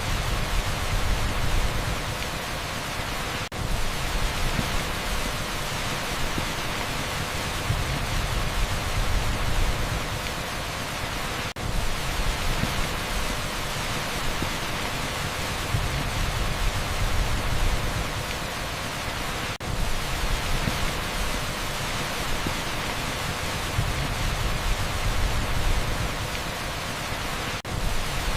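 Torrential rain on a street as a steady, dense hiss with a low rumble beneath, dipping briefly about every eight seconds.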